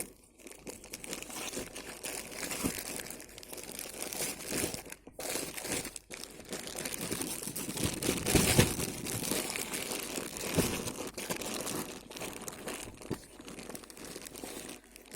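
Plastic packaging around a new t-shirt being crinkled, torn and pulled off by hand. The crackling goes on irregularly and is loudest about eight seconds in.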